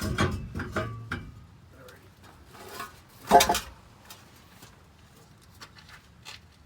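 Metal exhaust pipe clanking and scraping against the truck's underside as it is worked through the chassis, with one louder clank about three and a half seconds in.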